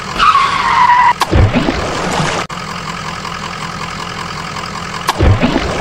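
Truck engine sound effect laid over a toy tanker truck: a steady running-engine background, a falling tone in the first second, and two short low engine bursts, about a second in and again near the end.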